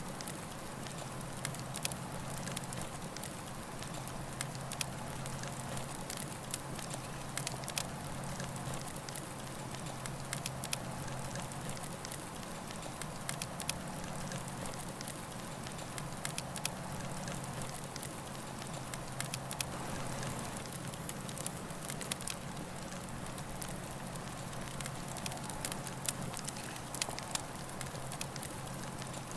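Campfire burning, with frequent sharp, irregular crackles and pops over a steady hiss and a low hum.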